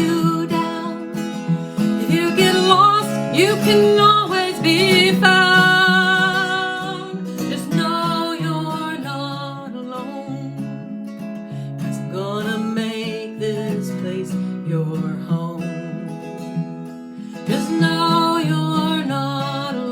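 Acoustic guitar strumming a steady chord pattern, with wordless sung vocal lines rising over it in places.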